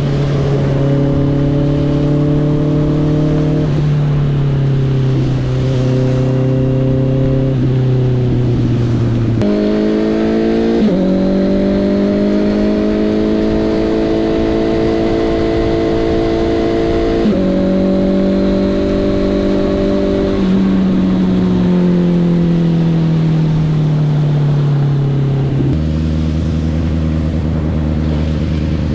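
Honda CB650R's inline-four engine running under way. Its note jumps and drops in steps as gears change, sinks gradually about 21 seconds in, then settles low near the end.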